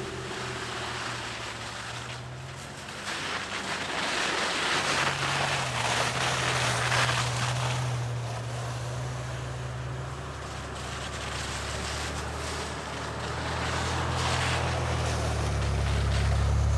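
A truck engine running under load while driving through snow, its pitch rising and falling with the throttle and building louder near the end, over a steady rush of wind and snow noise.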